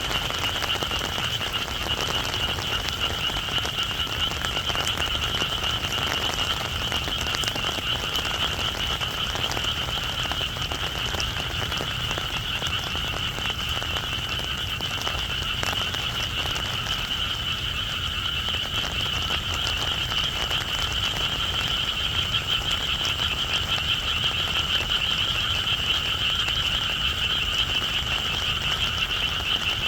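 Dense chorus of many frogs calling together, a steady unbroken trill, with rain falling.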